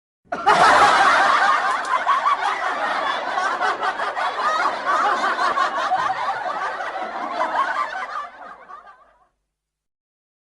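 Laughter from several people at once, a canned laughing sound effect. It starts abruptly and fades out about nine seconds in.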